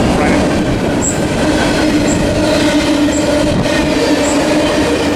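Train cars rolling past close by: a continuous rumble of wheels on rail with a steady ringing tone that grows stronger about a second and a half in, as the tail end of the train approaches.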